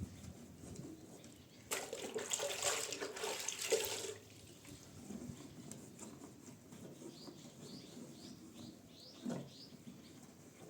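Water running or splashing for about two seconds, starting and stopping abruptly.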